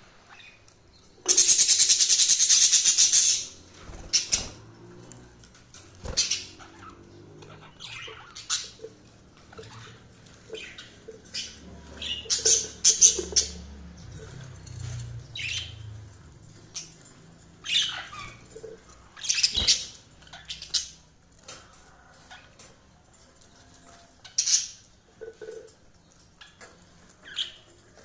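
Budgerigars chirping and squawking in short, scattered calls. About a second in there is a loud burst of rustling noise lasting about two seconds.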